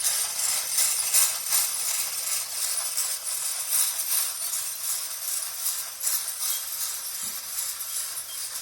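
Wilesco model showman's steam engine running: a fast, hissy chuffing of steam with a jingling metal rattle from its moving parts.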